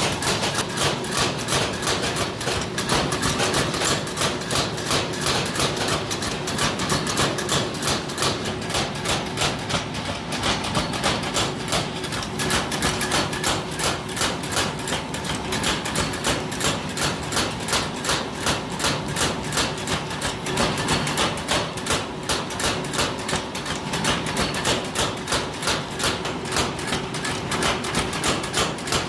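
Steady, rhythmic metal hammering or striking, about two to three blows a second without a break, over a faint steady machine hum.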